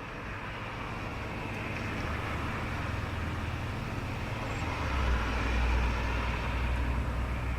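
Road traffic: a steady hiss of tyres with a low rumble that grows louder about five seconds in as a vehicle passes closer.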